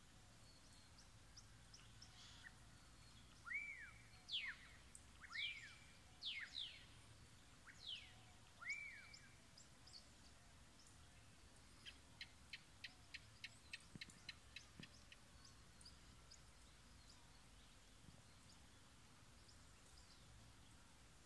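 Wild birds calling: several loud whistled notes, some arched and some sweeping downward, over about five seconds, then a quick, even series of about ten short ticks a few seconds later.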